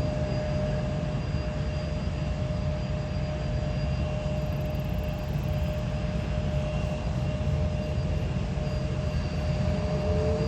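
Jet airliner engines running steadily, a constant whine over a low rumble and hiss; a second, slightly lower whine joins near the end.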